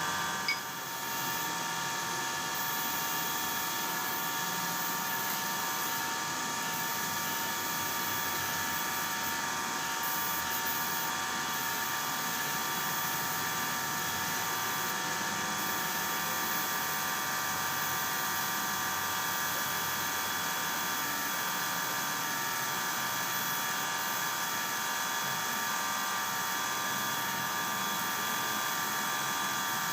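A power tool's motor running steadily with a high whine, dipping briefly about half a second in.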